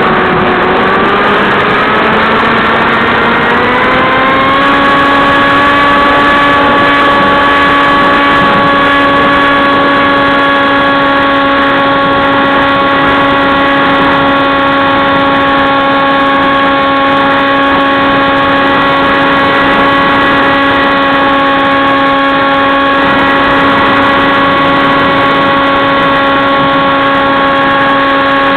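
Electric motor and propeller of an AXN Clouds Fly RC plane, heard on board in flight. It runs with a steady whine that rises in pitch over the first few seconds as the throttle opens, then holds at one pitch.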